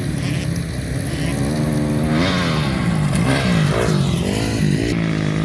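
Dirt bike engines running on a dirt track: a steady engine drone throughout, and from about two seconds in one bike revs up and down several times, its pitch rising and falling.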